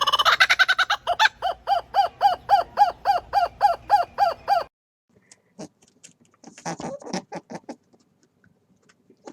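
A bird calling in a quick run of about a dozen short, repeated calls, roughly three a second, which stop abruptly a little under five seconds in. Faint scattered ticks and rustles follow.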